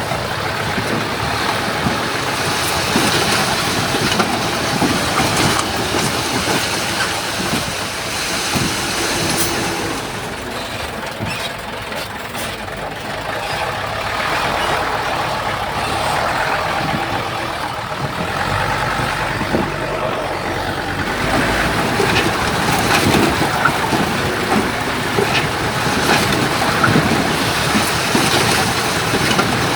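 Heavy earthmoving machines at work: diesel engines running under load with clanking, scraping metal and rumbling.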